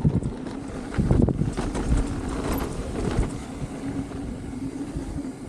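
Wind buffeting the microphone as a low, uneven rumble, with scattered knocks and rattles, the strongest about a second in.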